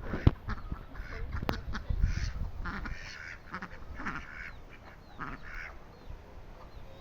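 Birds calling: a run of short, harsh calls repeated every half second or so, fading toward the end, with a couple of sharp clicks near the start.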